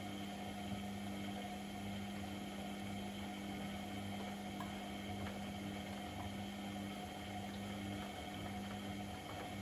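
Privileg Sensation 952 S top-loading washing machine with a pump running: a steady hum over the sound of moving water.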